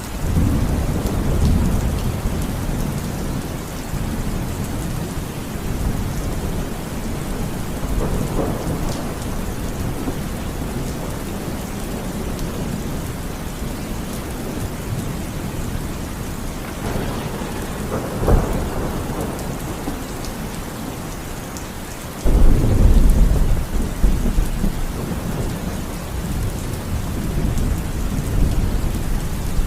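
Steady rain with rolling thunder. A deep rumble sets in right at the start, a sharp crack of thunder comes about 18 seconds in, and a louder, deep rumble breaks out suddenly a few seconds later.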